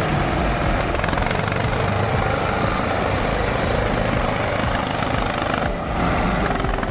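A heavy tractor engine running hard: a loud, steady, rough drone that dips briefly about six seconds in.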